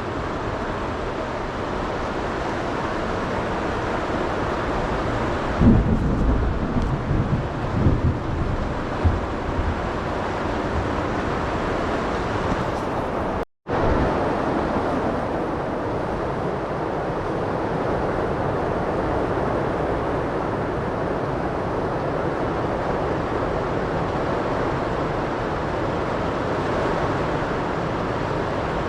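Heavy rain pouring steadily in a thunderstorm, with wind, and a few loud low rumbles between about six and nine seconds in. The sound drops out for an instant about halfway through.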